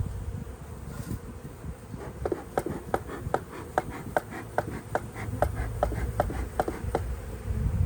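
Honey bees buzzing around an opened hive during an inspection, over a low rumble. Through the middle of the sound a quick run of short, sharp ticks comes at about three a second.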